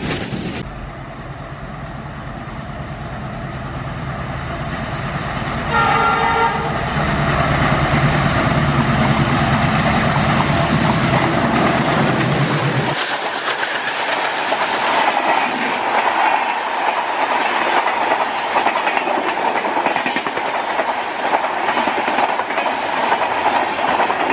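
Alco diesel locomotives running past with a low engine rumble, and one short horn blast about six seconds in. About halfway through the engine rumble drops away and the train's coaches go by, their wheels clattering over the rail joints.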